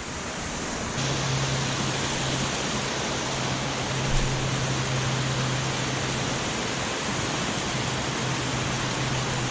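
Water pouring over a low creek dam, a steady even rush. A steady low hum runs underneath from about a second in, breaking off briefly near the end.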